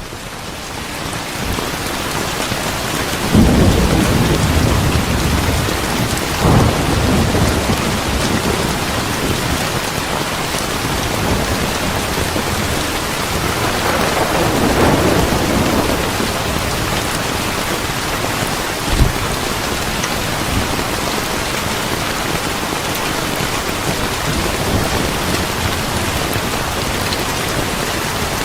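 Steady heavy rain, swelling up over the first few seconds, with low rolls of thunder: strongest about three and a half seconds in, again a few seconds later, and a longer rumble around the middle.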